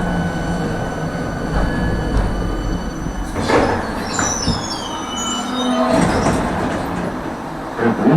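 Tram running along its track with a steady low rumble, its wheels squealing in high tones about halfway through and again briefly a little later, as on a curve. A short knock comes near the end.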